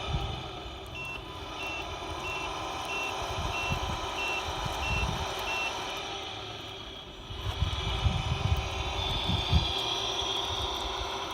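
Reversing beeper of an RC Mercedes Actros truck's sound unit: about eight short, evenly spaced beeps, roughly two-thirds of a second apart, that stop a little past halfway, over a steady simulated engine hum. Irregular low rumbles follow near the end.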